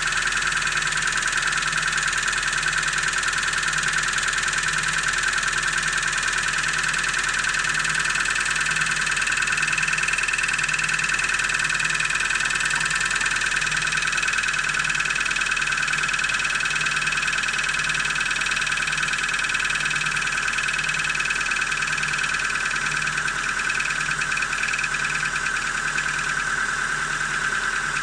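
Car engine running during warm-up with a rapid knocking from the lower part of the engine. The knock is heard at about 1100–1500 rpm on a cold engine and goes away as it warms up.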